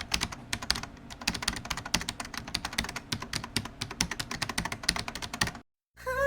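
Rapid, irregular clicking like typing on a keyboard, which stops abruptly about five and a half seconds in; music begins just before the end.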